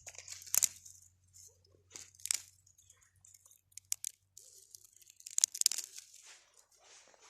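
Dry grass and small sticks rustling and crackling as they are handled and laid into a fire pit as kindling, in short irregular bursts with a few sharp snaps.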